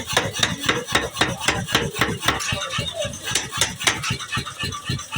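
Power hammer blows on metal, about five a second in a quick run, each a dull thud with a clanking metallic ring.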